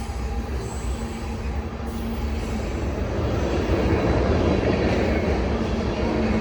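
Train rolling along the tracks: a steady low rumble of engine and wheels on rail that grows louder about halfway through.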